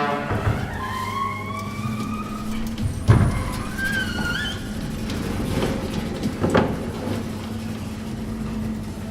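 Automatic garage door in motion: a steady motor hum with high whines that glide up and down, and a sharp clunk about three seconds in.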